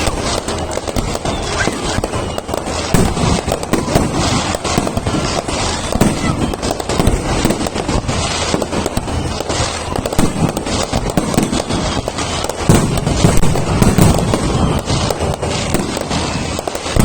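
Aerial fireworks bursting in rapid succession with dense crackling. Louder booms come about three and four seconds in, and a cluster near the end.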